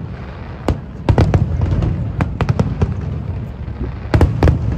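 Aerial fireworks shells bursting in a large display: a run of sharp bangs over a continuous low rumble of further explosions, with a cluster of bangs about a second in and another near the end.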